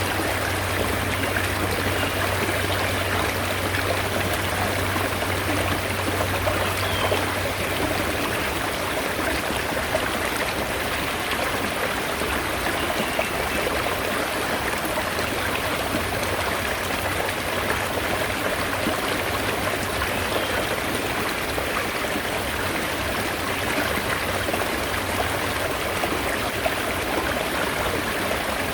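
Mountain stream running steadily, an unbroken rush and babble of water. A faint low hum underneath fades out about eight seconds in.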